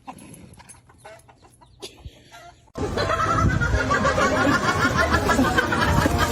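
A loud, dense chatter of many short bird-like calls that begins abruptly about three seconds in, after a quiet stretch with a few faint clicks.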